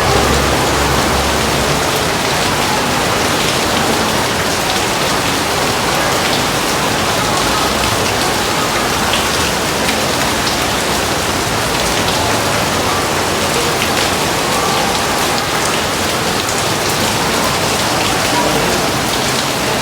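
Heavy rain falling steadily: a dense, even hiss with scattered drop taps. A low rumble fades out in the first two seconds.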